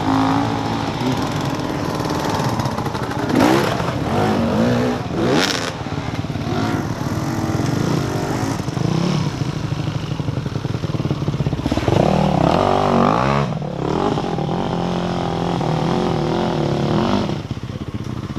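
A four-wheel drive's engine running and revving in repeated surges as it labours to get through, with clattering over it.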